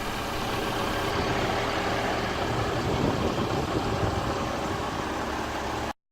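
Dennis Elite 2 refuse truck's diesel engine idling steadily, then cutting off suddenly near the end.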